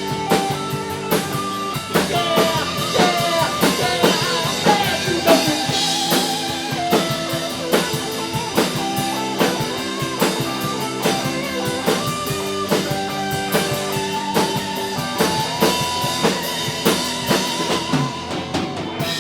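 Live rock band playing an instrumental outro: drum kit and electric guitar, with bass, and no vocals. The music stops abruptly near the end.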